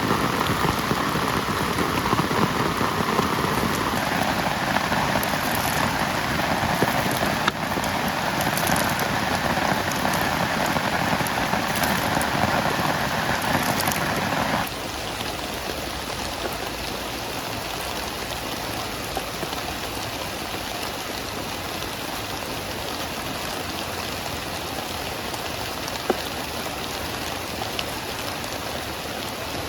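Heavy rain falling steadily. It turns suddenly quieter about halfway through.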